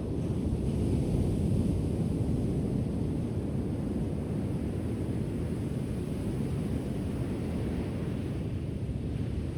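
Ocean surf: a wave washes in as a low rushing swell that builds over the first second or two and then slowly eases, with some wind rumble on the microphone.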